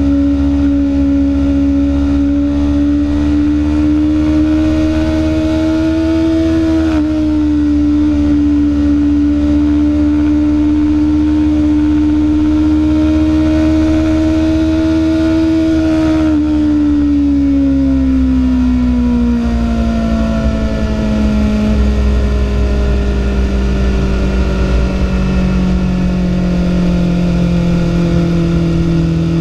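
BMW S1000RR's inline-four engine running under way on the road, its note holding and slowly climbing with a brief dip in pitch about seven seconds in. From about sixteen seconds in the pitch falls steadily for several seconds, then settles at a lower steady note. Wind rushes over the microphone throughout.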